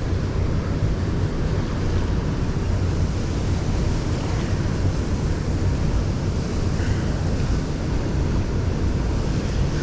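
Wind buffeting the microphone: a steady rushing rumble, heaviest in the low end and flickering unevenly.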